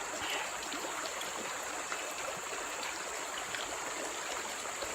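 A forest stream running steadily, its water giving an even rushing hiss.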